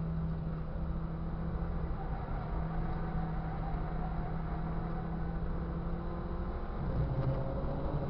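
Ford Fiesta Cup race car's engine running at a steady pitch under load through a bend, heard from on board. Near the end the note drops, as at an upshift, and then starts climbing again.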